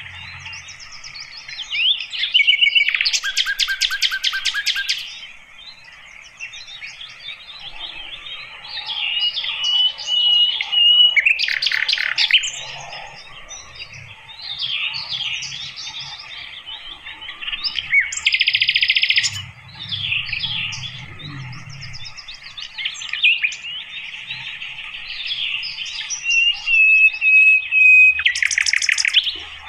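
Sikatan londo flycatcher singing a long, varied twittering song, broken about every six to eight seconds by loud, fast trills of rapidly repeated notes.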